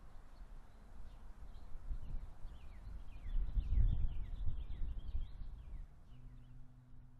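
Birds calling in a quick run of short, falling chirps over a low rumble on the microphone, the rumble strongest about four seconds in. A faint steady low hum comes in near the end.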